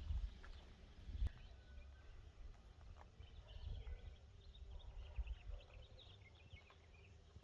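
Quiet outdoor ambience with birds chirping faintly here and there over a low, uneven rumble, and a single sharp click about a second in.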